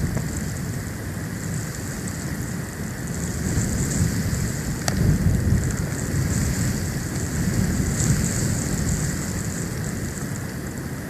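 Storm wind buffeting an outdoor nest-cam microphone in a snowstorm: a low rumble that swells and ebbs in gusts over a steady hiss. A single sharp click comes about five seconds in.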